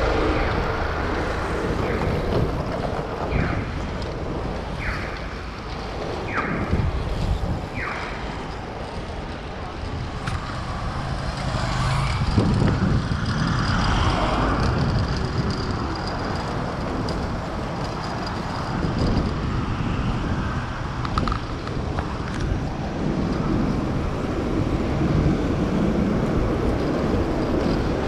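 Street traffic and wind rushing past from a bicycle riding through city streets. In the first eight seconds, six short beeps sound about a second and a half apart.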